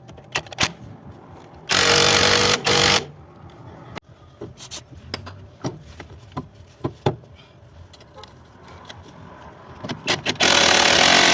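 Pneumatic impact wrench running in two loud bursts, about a second long and then about two seconds long, on the tie rod end fasteners. Scattered metallic clicks and light knocks of tools come between the bursts.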